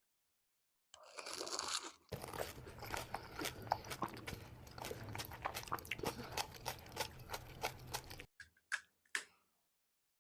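Close-up crunching and chewing of pani puri, the crisp hollow puri shells cracking between the teeth in many quick, sharp crackles. It starts about a second in, stops suddenly about eight seconds in, and a few last crunches follow.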